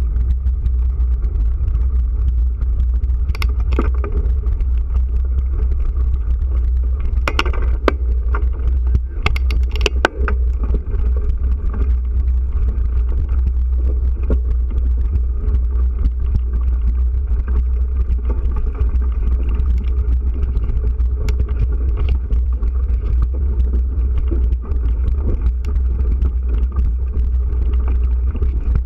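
Steady low rumble of wind buffeting the camera microphone during a bike ride, with a few sharp clicks or rattles about 3, 7 and 10 seconds in.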